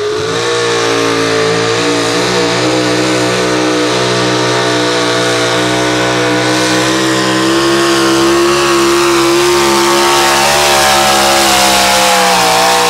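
Pro stock four-wheel-drive pulling truck's engine held at high revs under full load through a pull, a loud, steady, high-pitched note that wavers slightly.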